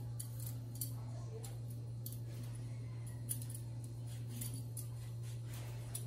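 Metal vegetable peeler scraping the skin off a potato in short, irregular strokes, over a steady low hum.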